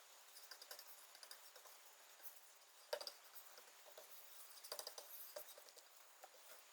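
Faint handling sounds: light clicks and rustles of hands working a wooden board, with one sharper tick about three seconds in and a few more clicks around five seconds.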